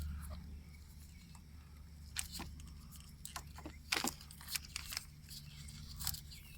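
Scattered plastic clicks and snaps from fingers working the locking tab of the electrical connector on a Honda Civic Si's fuel vapor canister purge valve, the sharpest about four seconds in, over a steady low hum.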